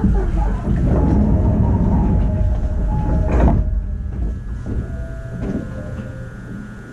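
Running sound inside a 209-series electric train's motor car: wheels rumbling on the rails with steady motor tones, slowing down. A brief loud rushing burst comes about three and a half seconds in, and the sound then fades steadily as the train loses speed.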